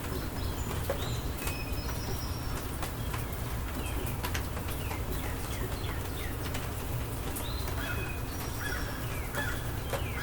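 Rainstorm ambience: steady rain with many close drops ticking and a low steady rumble underneath, while birds keep up short chirping calls.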